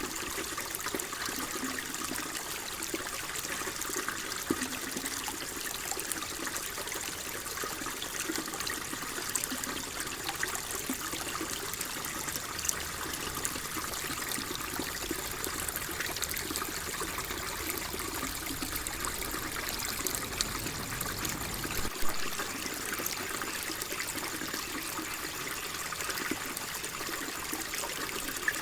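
Water flowing and trickling steadily, an even rushing hiss with no break, with a brief click about three quarters of the way through.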